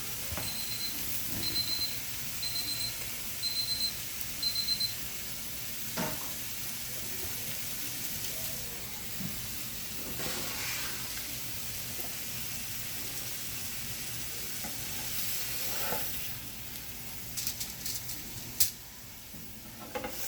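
Chicken sizzling steadily on a grill. A digital meat thermometer gives short high beeps about once a second for the first five seconds, signalling the meat has reached temperature. A knock about six seconds in and a few sharp clicks near the end.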